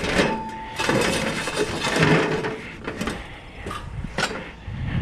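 Scrap metal clattering and clanking as pieces are handled and loaded, with a short metallic ring in the first second and a few sharp knocks near the end.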